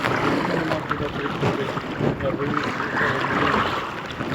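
Choppy river water sloshing and splashing against a kayak, with wind buffeting the microphone.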